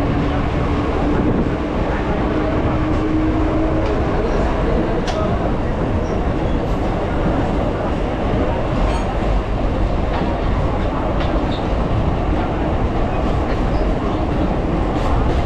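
Suburban electric multiple-unit (EMU) train running, heard from on board: a steady rumble of wheels on rail with scattered sharp clicks over rail joints and points. A faint rising whine sounds through the first four seconds.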